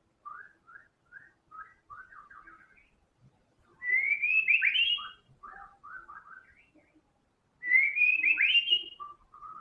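White-rumped shama singing: a run of short, quiet chirping notes, then two loud whistled phrases with rising notes about four seconds apart, with softer notes in between.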